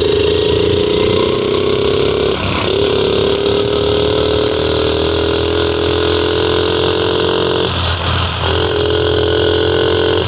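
50cc mini bike engine running under load while riding, its pitch slowly climbing as it accelerates. The note cuts out briefly twice, about two and a half and eight seconds in, and comes back lower each time, as with gear changes.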